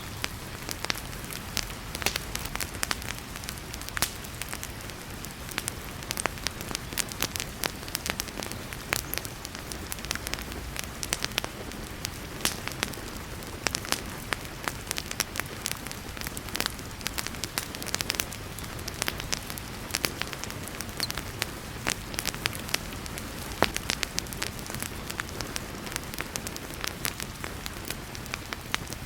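Wood fire crackling in a fireplace, with frequent irregular sharp pops and snaps over a steady hiss of heavy rain.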